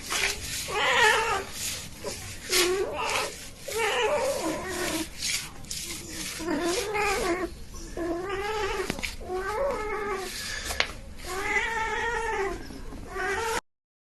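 Domestic cat yowling: a series of about eight long, drawn-out meows that rise and fall in pitch. The sound cuts off suddenly shortly before the end.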